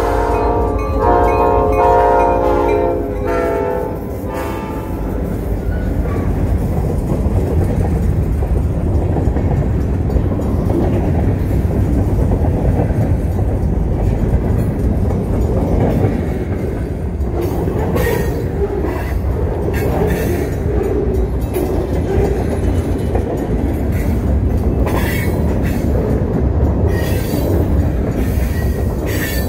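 Great Lakes Central Railroad freight train at a grade crossing. The locomotive's horn sounds and stops about four seconds in, then covered hoppers and lumber cars roll past close by with a steady rumble and wheel clatter.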